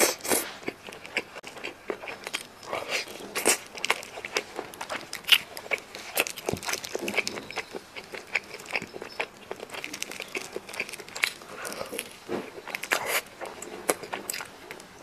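Close-miked chewing and biting of a cola-braised chicken drumstick: irregular clicking, smacking mouth sounds.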